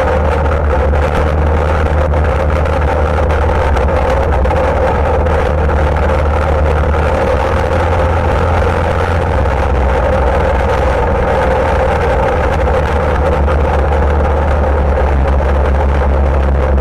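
ATV engine running steadily and close by, with a constant low drone and no clear revving.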